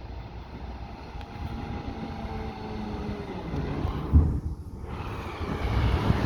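Diesel engine of a Peterbilt 520 garbage truck running nearby as it approaches, a low rumble that grows louder. There is one sharp knock about four seconds in.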